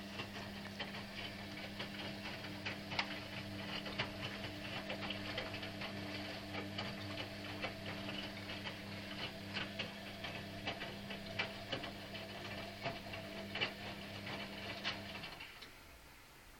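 Washing machine running: a steady motor hum with irregular ticking and clicking from the turning drum, stopping about fifteen seconds in.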